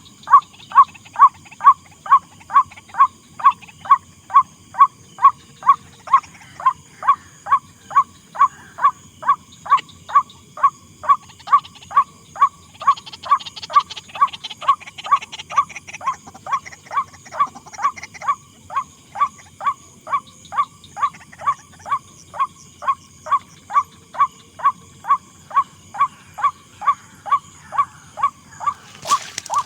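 White-breasted waterhen call, a single harsh note repeated very evenly about twice a second, as played from a recording to lure the birds.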